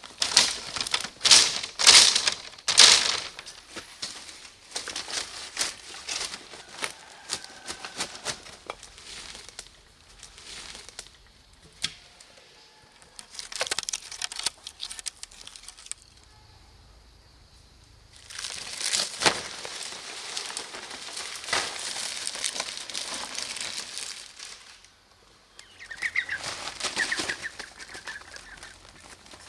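Bursts of rustling and flapping, loudest in the first few seconds, with a short bird call near the end.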